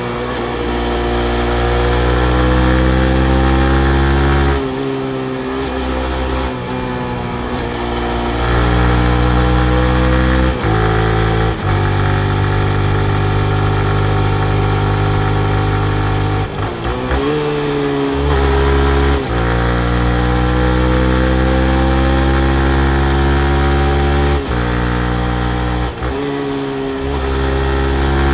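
2019 Yamaha MT-15's 155 cc single-cylinder four-stroke engine riding in traffic. The engine pitch climbs several times under acceleration and drops at gear changes and when slowing, with a steady stretch in the middle.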